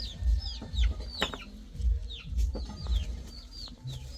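Chickens calling: a quick run of short, high chirps that fall in pitch, several a second, over dull low thumps.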